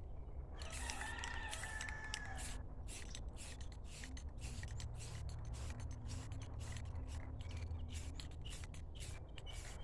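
Repeated short, scratchy hand strokes rubbing on the metal bed frame, such as sanding or working finish into it, over a low steady hum. A brief wavering high tone sounds about a second in.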